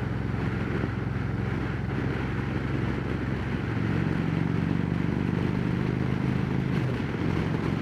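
Harley-Davidson Road Glide Special's V-twin running through Rinehart true-dual exhaust at cruising speed, with wind rushing over the helmet mic. The engine note steps up and gets a little louder about four seconds in, then eases off near the end.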